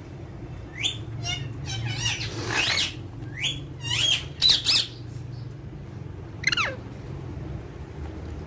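Alexandrine parakeets calling: a string of short, harsh calls bunched together, then a single call falling in pitch later on, over a steady low hum.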